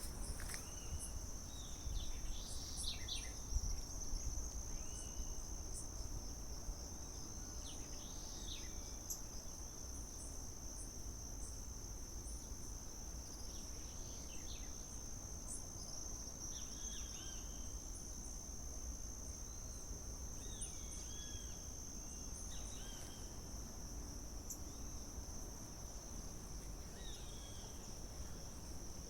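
Insects, cricket-like, holding one unbroken high-pitched drone, with short bird chirps scattered throughout.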